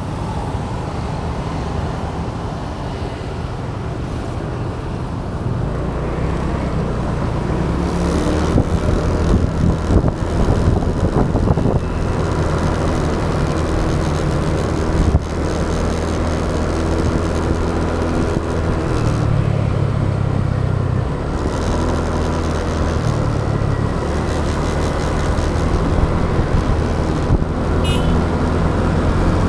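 Motorbike engine running on the move, mixed with wind and road noise, its pitch rising and falling as the speed changes.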